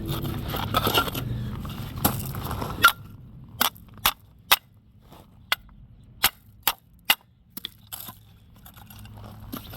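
Hammer striking the engine mount's bracket to bend one side down so the mount can slide out: a run of about seven sharp, separate blows, roughly half a second to a second apart, after a few seconds of rougher working and scraping noise.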